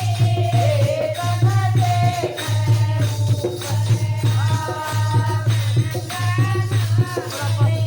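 Indian devotional bhajan music: a wavering sung or played melody over a steady pulsing low beat, with shaken jingling hand percussion.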